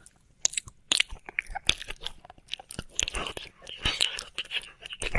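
Wet mouth and tongue sounds of ASMR ear licking close to the microphone: irregular sharp wet clicks starting about half a second in, with a couple of softer hissy stretches around three to four seconds in.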